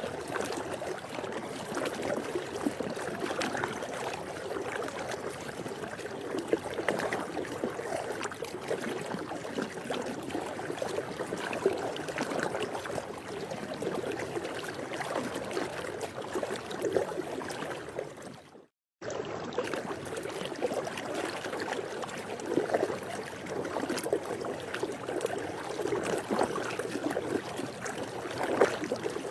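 Swimming pool water making a steady, even water noise, with no distinct splashes. It cuts out for a split second about two-thirds of the way through, then carries on the same.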